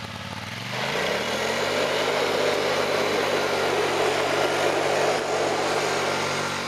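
Chain-drive garage door opener running as it lowers the door. Its electric motor hum rises to speed in the first second and then holds steady under a rattling noise from the loose drive chain and the moving door, fading near the end.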